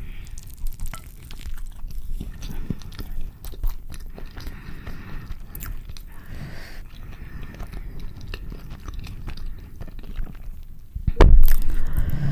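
Close-miked mouth sounds of eating a carne asada burrito: a bite into the flour tortilla, then wet chewing with many small crackles. A loud thump comes near the end.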